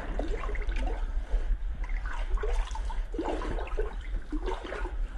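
Water sloshing and splashing around a rubber dinghy being paddled by hand across flooded mine water, irregular splashes over a steady low rumble.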